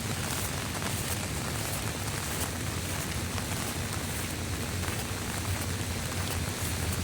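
Steady rain falling on surfaces, with scattered drop ticks over an even hiss and a low rumble underneath.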